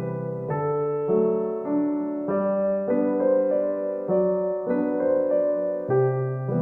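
Background piano music: soft sustained chords changing about every half second to a second.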